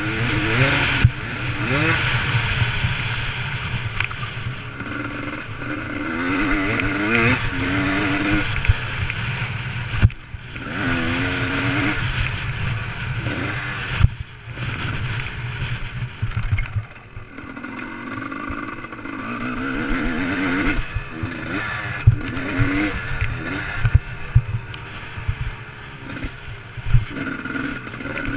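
Motocross dirt bike engine revving up and down again and again as it is ridden, its pitch climbing and dropping with each throttle change, with many sharp knocks mixed in.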